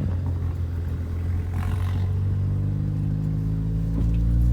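A vehicle engine runs with a low, steady note, then rises in pitch and grows louder near the end as it accelerates.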